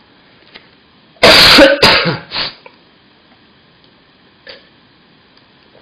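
A man coughing and clearing his throat: three quick coughs in a row about a second in.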